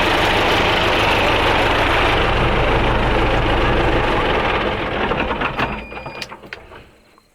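An engine running steadily, then shut off about five seconds in, winding down to quiet with a few clicks.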